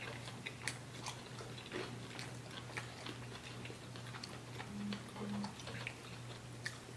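Two people chewing mouthfuls of crispy fried chicken sandwich close to the microphone, with many small crackly mouth clicks and crunches. A steady low electrical hum runs underneath, and two short low hums come about five seconds in.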